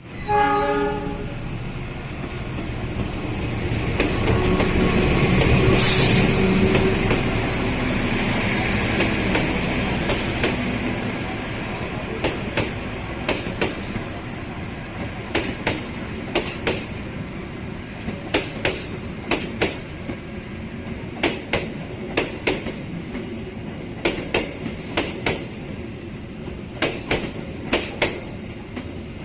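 Train passing close by. It opens with a short horn blast, then the train's rumble builds to its loudest about six seconds in. After that the wheels clatter over rail joints in quick pairs of clicks as the cars roll past.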